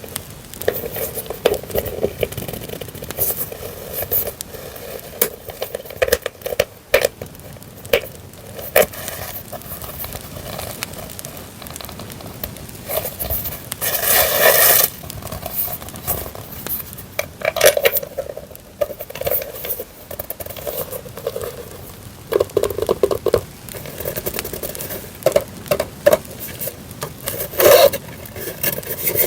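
Paper goods being handled: irregular rustling, crinkling and scraping of journaling papers and stickers, with a few louder handling bursts, over a steady crackling campfire sound laid underneath.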